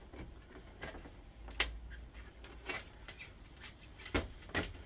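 Hands handling an induction hob's copper coil assembly: scattered light clicks and rustles of wire and plastic parts, with a few sharper clicks near the middle and near the end.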